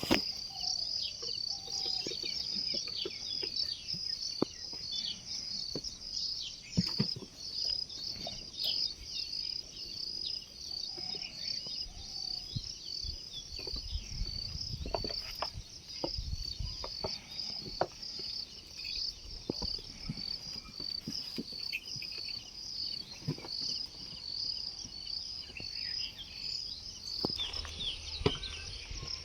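Insects chirping steadily in a fast, even pulsing rhythm, with scattered small clicks and knocks and a low rumble partway through.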